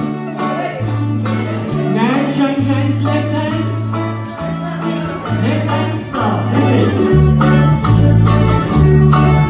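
Live folk band playing an upbeat dance tune on plucked string instruments over a steady stepping bass line. The bass grows louder about seven seconds in.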